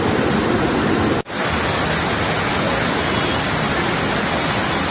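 Heavy rain and running water making a dense, steady hiss. It cuts out for an instant about a second in, then resumes a little brighter.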